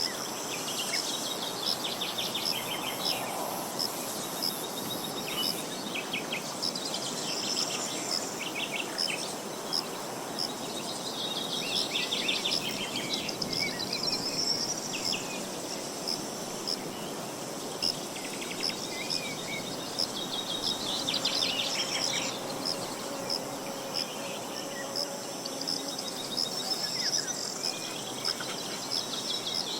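Several songbirds singing rapid trills and chirps over a steady, high, pulsing insect chirring, with a low rustle of wind underneath.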